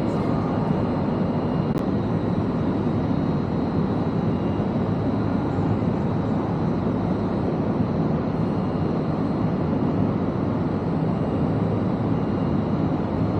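Steady low rumble of railway station ambience, an even noise with no distinct events.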